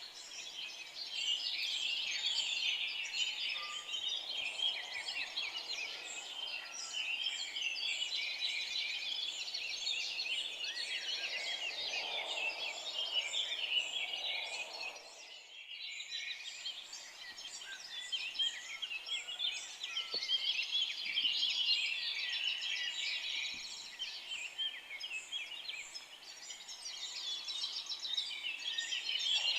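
Dense chorus of many forest songbirds chirping and trilling together, with no single song standing out. The whole chorus dips briefly about halfway through.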